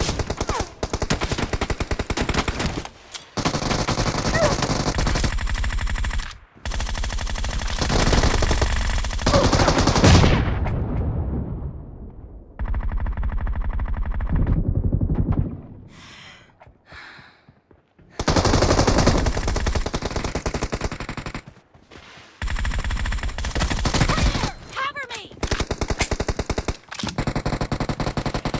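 Rapid automatic gunfire in long sustained bursts of about two to four seconds each, with short pauses between them; one burst near the middle fades out with a trailing echo.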